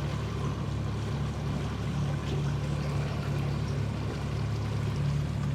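Boat engine running steadily at low cruising speed, a constant low hum, with water washing along the hull.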